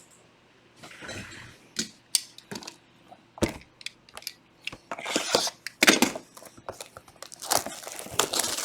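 Cardboard trading-card boxes being handled and set down on a table: scattered knocks and short crinkling rustles, sparse at first and much busier from about halfway through.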